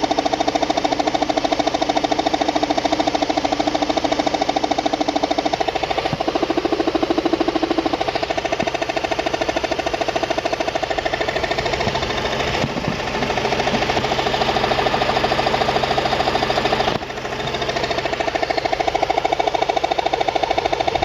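An engine running with a fast, steady knocking, the 'knock' the title names, with a brief dip about two-thirds of the way through.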